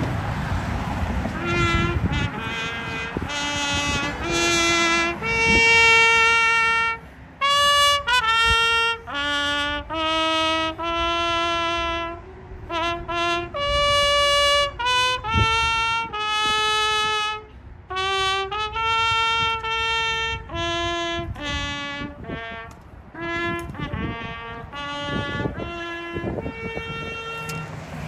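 A solo trumpet plays a slow melody one note at a time, in phrases separated by brief breaths roughly every five seconds.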